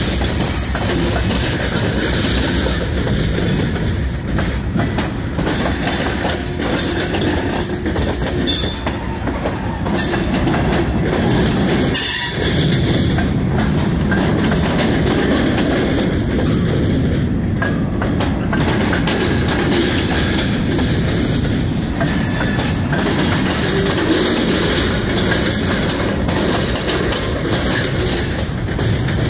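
Freight cars rolling past at close range: a steady, loud rumble of steel wheels on rail, with a thin, high squeal of wheels against the rail.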